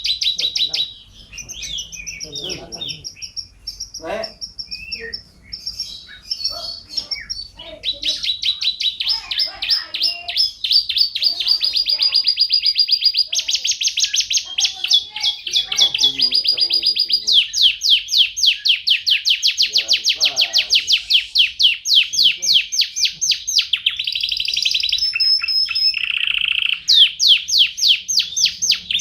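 Canary singing: fast trills of rapidly repeated high notes. Short phrases come first, then from about eight seconds in the trilled phrases run on almost without a break, changing pitch from phrase to phrase.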